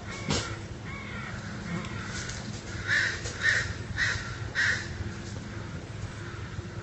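A bird calling: four short, harsh calls about half a second apart, around the middle, over a steady low hum.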